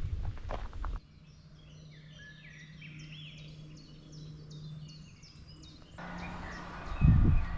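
Footsteps on a forest trail for the first second. Then, after a sudden cut, several small birds chirp and trill over a faint steady low hum. A louder outdoor haze follows, with a loud low thump near the end.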